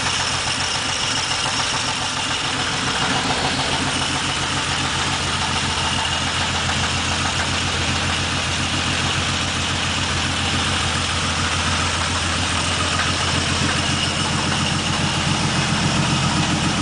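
1947 Dodge flathead six engine running steadily around idle, a little louder near the end. Just above idle it has a knock that the owner takes for a rod knock.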